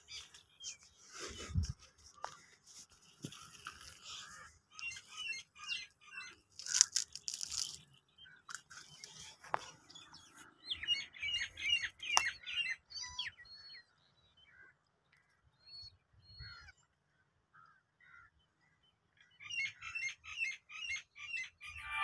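Small birds chirping in quick runs of short, high notes, thickest about halfway through and again near the end, with a brief burst of noise about seven seconds in.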